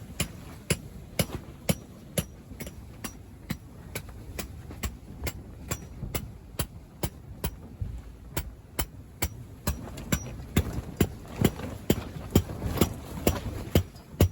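Hammer driving a metal tent peg into the ground: steady strikes about two a second, each with a short metallic ring.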